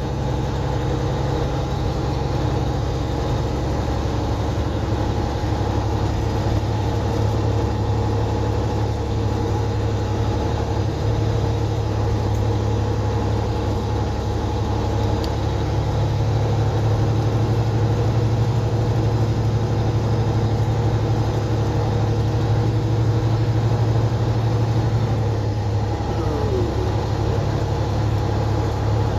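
Semi truck's diesel engine running steadily under way, heard from inside the cab as a low drone with road noise. Its note shifts slightly a few seconds in and again about halfway through.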